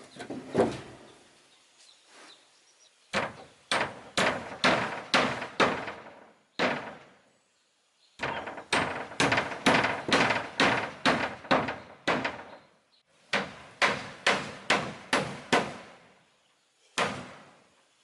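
Repeated blows of a hand tool striking wood, about two a second, in runs of six to eight strikes with short pauses between them, and a single last strike near the end.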